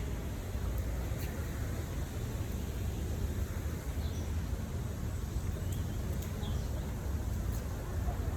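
Steady low outdoor rumble, with a few faint high chirps near the middle.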